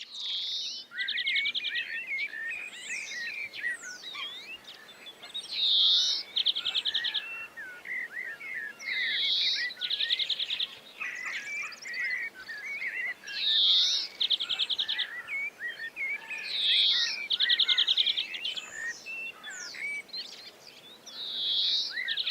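Spring birdsong from several birds, with many short chirps and one bird repeating the same phrase about every four seconds: a short note and then a fast, even trill.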